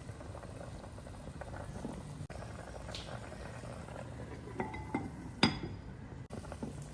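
Food bubbling in a cooking pot, with a few light clinks of kitchenware. The loudest is a sharp clink about five and a half seconds in.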